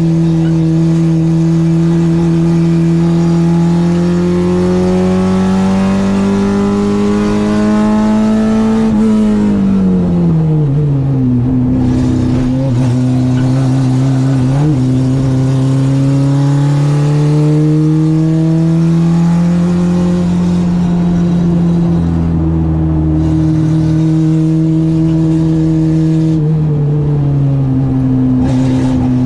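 Citroen AX's 8-valve four-cylinder engine on twin Weber 40 carburettors, pulling slowly up through the revs under load. About nine seconds in the revs fall sharply, then climb again and hold steady, and drop once more near the end.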